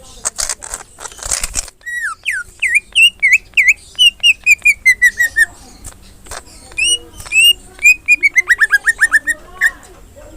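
Green leafbird (cucak ijo) singing loudly in rapid runs of clear whistled notes, many sliding down in pitch, in bursts with short pauses between them. The song begins about two seconds in, after a stretch of scratchy noise.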